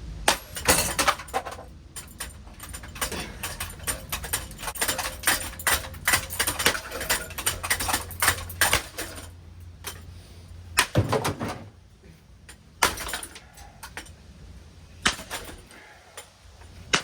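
Hunter ceiling fan being smashed apart: dense clattering and rattling of loose metal parts and fittings for the first several seconds, then a few separate hard knocks, over a low motor hum that fades away about twelve seconds in.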